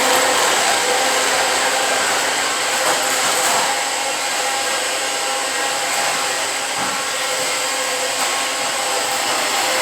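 Shark vacuum cleaner running steadily: a motor whine over a rushing hiss.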